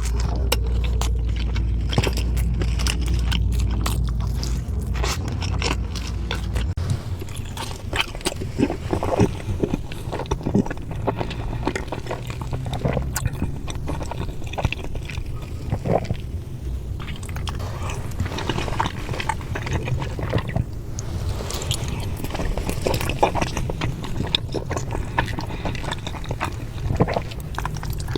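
A person eating close to the microphone: wet, irregular chewing and biting, with many small clicks and crackles, over a steady low hum.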